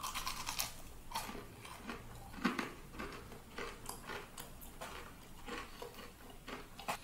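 A bite into a crispy breaded fried chicken finger, then chewing with irregular crunches close to the microphone.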